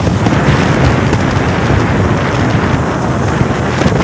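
Fishing boat's engine running steadily under loud wind buffeting the microphone, amid stormy, rough sea.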